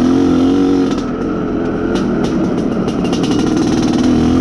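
IZh Planeta Sport motorcycle's single-cylinder two-stroke engine running under way, easing off slightly about a second in and picking up again near the end. The engine is being run in, and it runs very softly.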